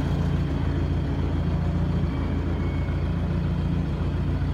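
Forklift engine running steadily as a low, even hum while the mast lifts a rider.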